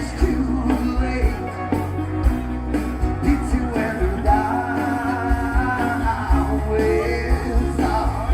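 A 1970s pop song played from a vinyl record over a sound system: a singing voice over a steady drum beat.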